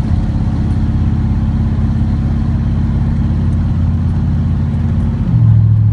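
Chevrolet Corvette C3's V8 engine running steadily while the car drives, heard over road noise. About five seconds in, the engine note drops to a lower pitch and gets a little louder.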